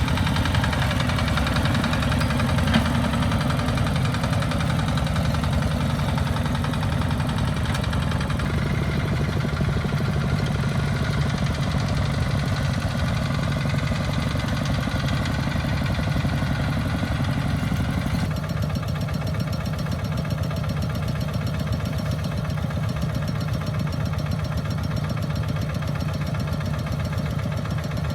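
Small farm tractor engines running steadily with a fast, even knock. The sound shifts abruptly about eight and about eighteen seconds in.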